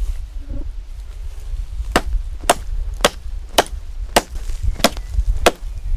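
Axe chopping into dry willow wood, seven sharp strikes at about two a second, starting about two seconds in.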